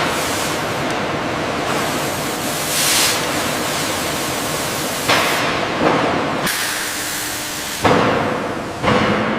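Factory noise: a steady loud hiss, with four sudden bangs from about five seconds in, each dying away over a second or so.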